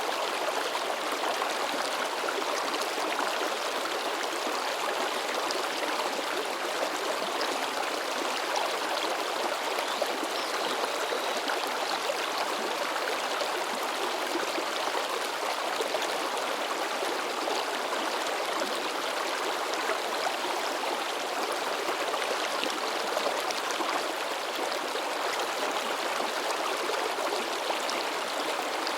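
Mountain stream babbling and splashing over rocks in a steady, unbroken rush of water.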